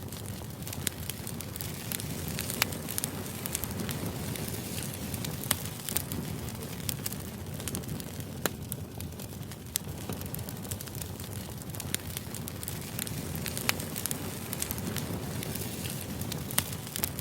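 Crackling fire ambience: a steady low rumble with irregular sharp crackles and pops.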